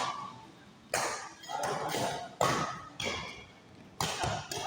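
Badminton rally: about four sharp racket strikes on the shuttlecock, roughly a second apart, each echoing in a large hall.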